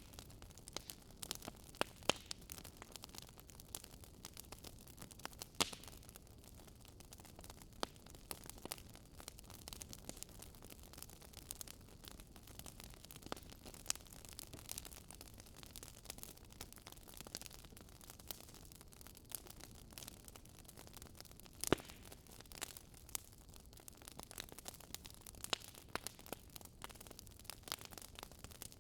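Wood fire burning, with irregular sharp crackles and pops over a faint steady hiss; one louder pop about two-thirds of the way through.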